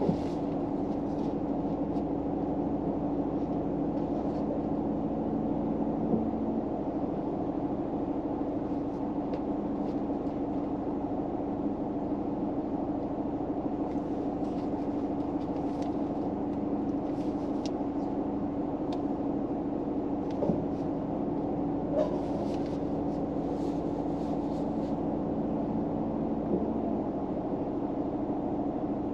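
Steady low hum of a car interior, with one constant tone running through it. A few faint clicks and soft rustles come in, mostly in the later part.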